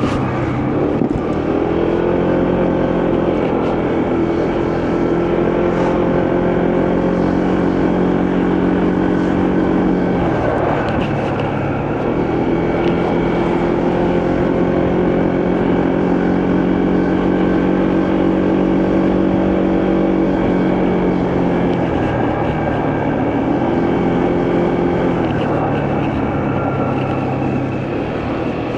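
Motorcycle engine running while riding. Its note climbs and holds steady, eases off about ten seconds in, picks up again, and then falls and rises once more in the last few seconds.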